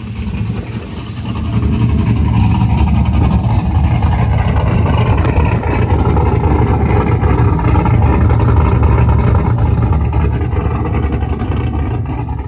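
Truck engine with a freshly swapped aftermarket camshaft, being tuned: it revs up about two seconds in, holds at higher revs for several seconds, then drops back toward idle near the end. Wind rumbles on the microphone underneath.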